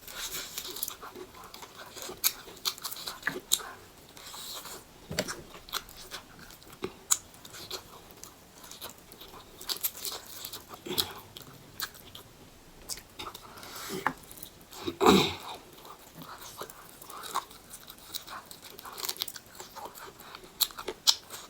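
A person chewing and biting food, with crunching, in an irregular run of wet smacks and crunches; the loudest comes about fifteen seconds in.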